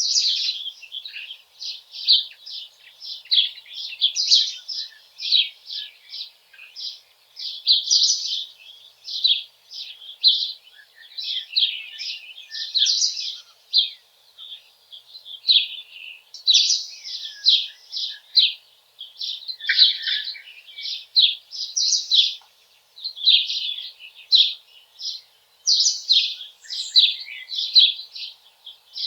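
Small songbirds chirping and singing without pause, a dense stream of quick, high twittering notes.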